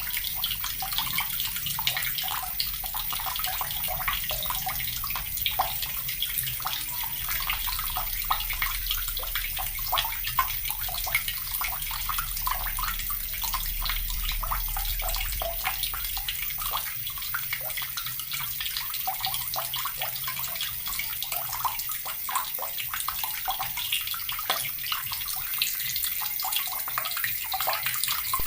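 Water running steadily from a tap and splashing, a constant hiss with dense, irregular spattering.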